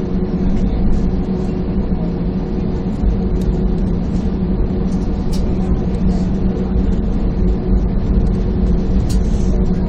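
Airliner cabin noise from inside the aircraft: the jet engines' steady hum over a low rumble.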